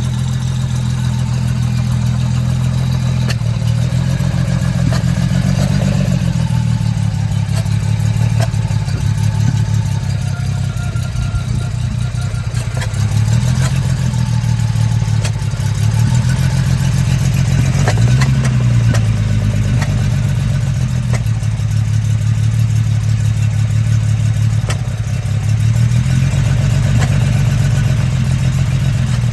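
Jaguar E-Type's straight-six engine running while the car is driven, its pitch rising and falling several times as it speeds up and eases off.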